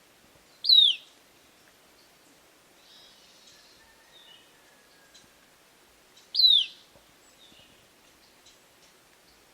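A bird calling: two loud, sharp calls that each slide quickly down in pitch, about five and a half seconds apart, with fainter chirps between them.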